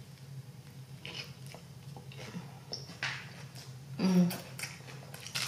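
Biting into and chewing a Whopper Junior burger, soft moist chewing with small clicks of the mouth, and a short vocal sound from the eater about four seconds in.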